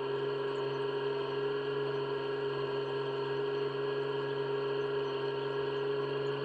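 Farm machinery engine running at a steady speed: a constant drone with a steady whine over it, unchanging throughout.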